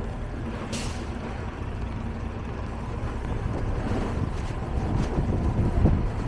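Street traffic rumble, a motor vehicle growing louder toward the end as it comes close, with a short hiss about a second in.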